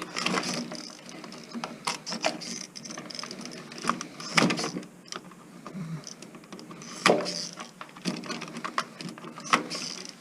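Scattered clicks, rattles and knocks of hand tools and small metal parts while an old stereo amplifier's chassis is being dismantled for scrap, with a louder knock about four and a half seconds in and another about seven seconds in.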